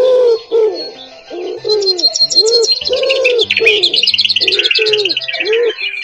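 Birds calling together: a low, arched call repeated roughly every half second, with a bird's rapid high chirping and twittering joining in after about a second and a half.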